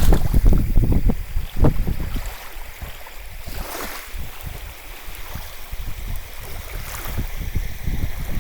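Wind buffeting the microphone over the rush of sea water; the low rumble eases off about two seconds in and builds again near the end.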